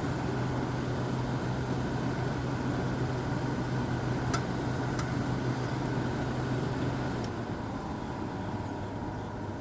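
Fan motor of a 1999 Whirlpool 5000 BTU window air conditioner running on fan only: a steady hum and whoosh of air, a fan motor that does not sound all that healthy. The low hum drops away about seven seconds in, and two faint ticks come near the middle.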